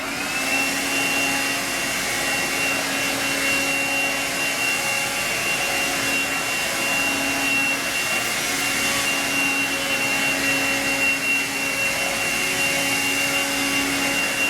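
Eureka Quick Up 96H cordless stick vacuum switching on, its motor whine rising quickly to a steady high pitch. It then runs steadily while being swiped over carpet to pick up synthetic pet hair.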